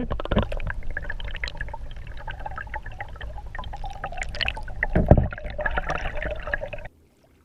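Water splashing, trickling and dripping beside the boat as a small hooked fish is brought in, with a louder splash about five seconds in. The sound cuts off abruptly near the end.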